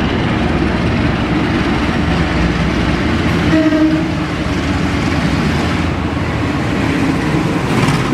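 Train at a station platform: a steady, loud rumble and rattle of rail vehicles, with a brief slight swell about three and a half seconds in.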